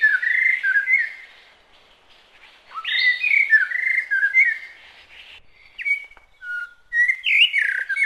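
A bird singing: a warbling phrase of quick whistled notes at the start, a longer one about three seconds in, then a few short separate notes and one more phrase near the end.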